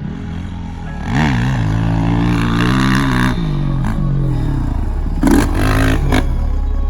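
Dirt bike engine revving on a motocross track: the pitch climbs sharply about a second in, holds under throttle, then falls off. There is a brief clattering, scraping burst about five seconds in.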